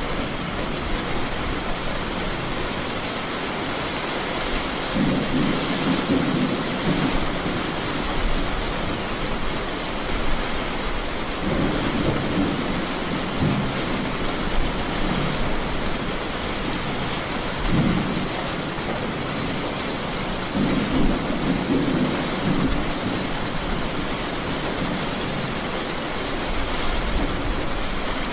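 Steady rain with rolls of thunder rumbling low, about five times, every few seconds.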